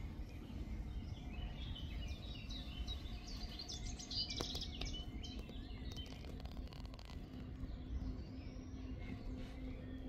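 A bird singing, with a quick run of high chirping notes from about two to five seconds in, over a steady low outdoor rumble.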